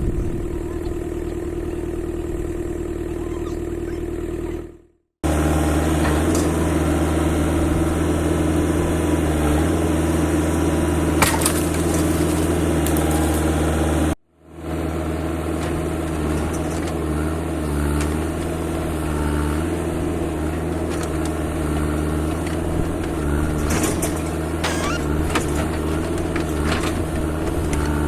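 Heavy machinery engine running steadily, heard in three stretches that break off suddenly, with a few sharp knocks and clatter over it.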